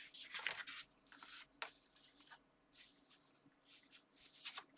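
Pieces of card and paper being handled and slid about on a crafting surface: a series of soft, brief rustles and scrapes with a short pause partway through.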